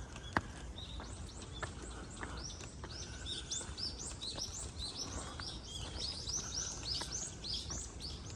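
Songbirds chirping: a rapid series of short, high calls, each sweeping downward, that builds up a second or so in and goes on thick and fast. A steady low background rumble runs under them.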